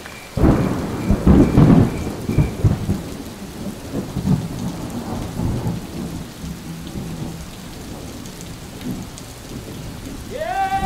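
A thunderclap breaks about half a second in and rumbles, fading over the next several seconds, over a steady hiss of rain. A held, pitched note begins just before the end.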